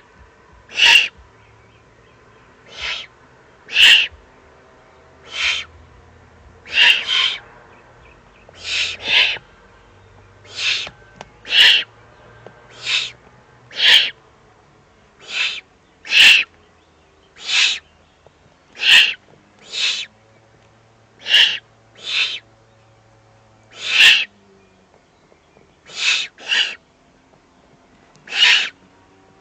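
Eurasian eagle-owl chicks begging at the nest while being fed, giving short hissing calls about every second or so, some in quick pairs. A faint low hum lies underneath.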